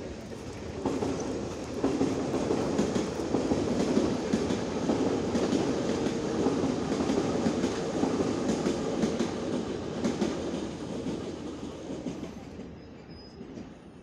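Electric train running on rails: a steady rumble with wheels clattering over the rail joints, swelling about a second in and fading away near the end.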